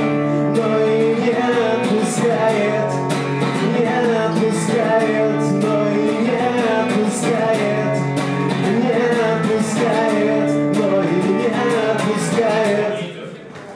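A man singing to a strummed acoustic guitar in a live acoustic performance. The music dies away about thirteen seconds in as the song ends.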